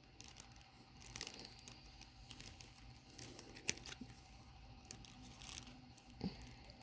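Faint crinkling and rustling of small packaging being handled, with scattered light clicks and taps; the sharpest click comes a little past halfway.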